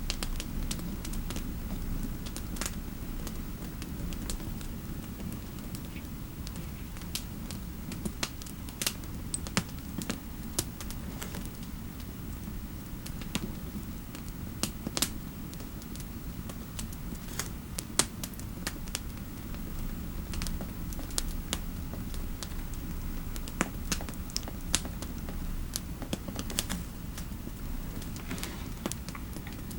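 Scattered, irregular keystrokes on a computer keyboard, over a steady low fireplace ambience.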